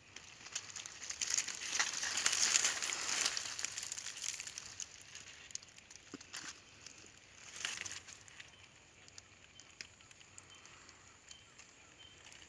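Rustling and crackling, like leaves and twigs being disturbed, swelling over the first few seconds and fading, with another short burst about two-thirds of the way through.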